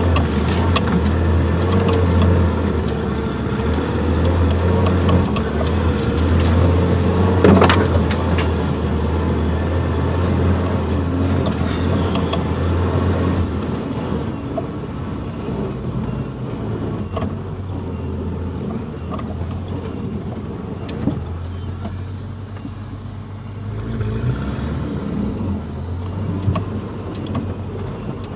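Suzuki Jimny engine running steadily at low revs off-road, with scattered knocks and rattles and a sharp knock about seven seconds in. It grows somewhat quieter about halfway through.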